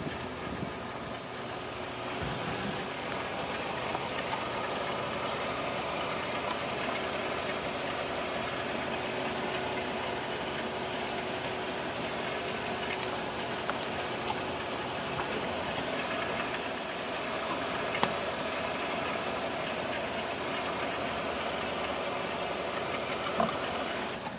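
Disc brakes squealing: a thin, high-pitched squeal that comes and goes in about eight short spells each time the brakes are applied, over the steady running noise of the car. The owner suspects the left front disc pads and caliper.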